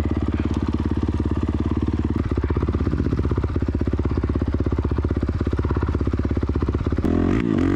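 Dirt bike engine idling with an even, steady pulse. Near the end a louder engine sound comes in, rising and falling in pitch.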